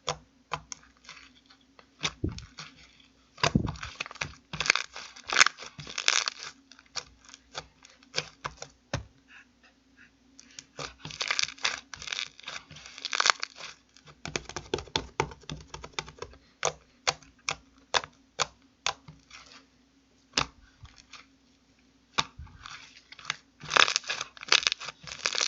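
Foam-ball slime being squeezed and pressed by hand, the foam beads giving many sharp crackles and pops, in dense clusters with short pauses between.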